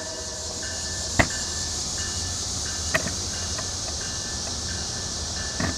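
Approaching passenger train, a steady hiss and rumble with faint intermittent high squealing. Three sharp clicks stand out, about a second, three seconds and five and a half seconds in.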